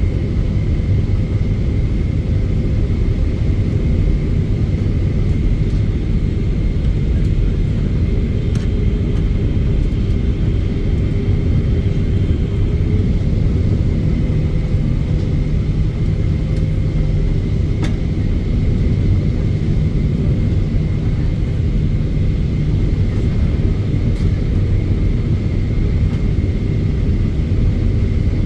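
Steady cabin rumble of a Boeing 777-300ER, its GE90 engines and airflow heard from a window seat, with a faint steady high whine.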